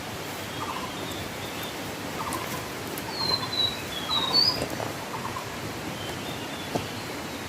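Birds calling: a series of short chirps, with a few higher whistled notes around the middle, over a steady rushing background hiss.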